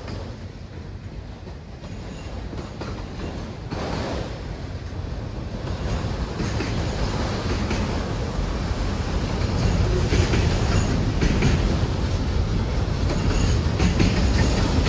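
Empty autorack freight cars rolling past, their wheels clacking over the rail joints above a low rumble that grows steadily louder.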